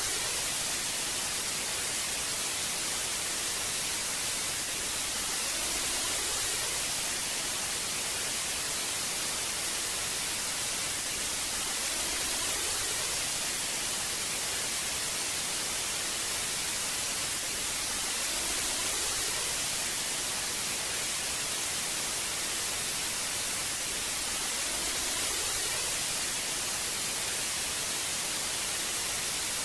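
Old analog TV static: a steady, hissing white noise, brightest in the highs, swelling slightly about every six seconds.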